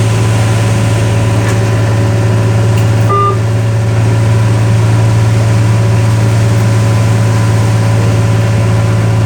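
A fishing boat's engine running steadily with an even low drone.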